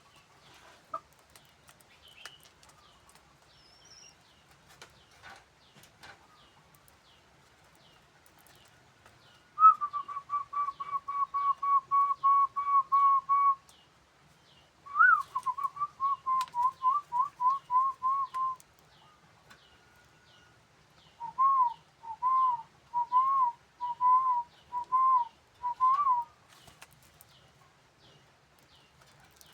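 A bird calling in three bouts of rapid, evenly repeated whistled notes. The first bout holds one pitch; the second and third waver up and down from note to note.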